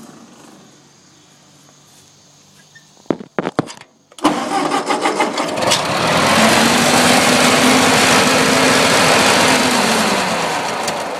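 Ford 8N tractor's four-cylinder flathead engine cranked briefly with choke on, then catching about four seconds in and running steadily before fading out near the end as it stalls again. The owner is unsure of the cause of this repeated stalling and suspects the governor or a fuel and carburetor problem.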